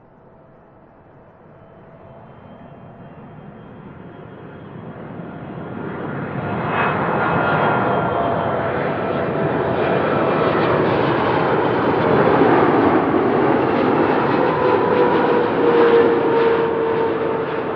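Jet airliner passing close, its engine noise growing over about seven seconds from faint to loud, then holding loud. Several whining tones run through it and slide slightly lower near the end as the aircraft goes by.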